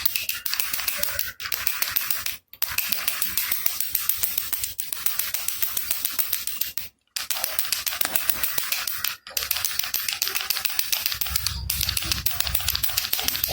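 Baby rattle shaken steadily, its loose beads making a fast, dense clatter of clicks, broken by a few brief stops. A low hum joins in near the end.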